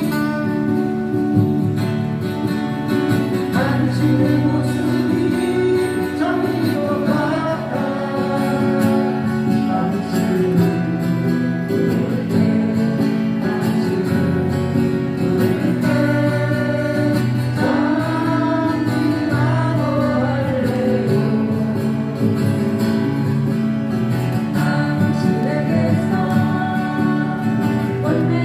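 Live music played on strummed acoustic guitars through a PA, with a melody line rising and falling in phrases over the steady chords.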